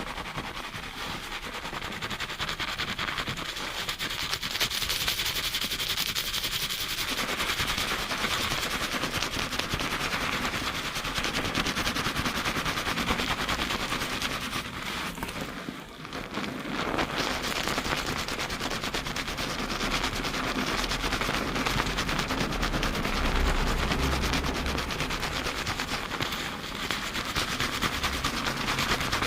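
Fingers rapidly scrubbing a foamy, lathered scalp in a high-speed shampoo: a dense, fast crackle of foam and wet hair, recorded close on binaural microphones. It grows louder about four seconds in and eases briefly around the middle.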